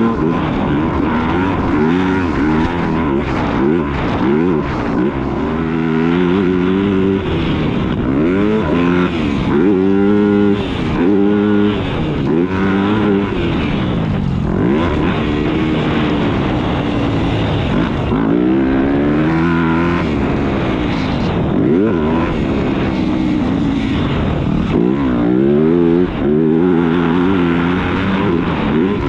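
Motocross dirt bike engine on the track, its pitch climbing and dropping over and over as the rider works the throttle and shifts through the gears.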